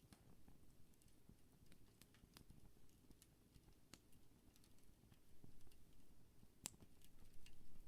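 Wood campfire crackling softly: scattered small pops and ticks over a faint low rumble, with one sharper snap near the end.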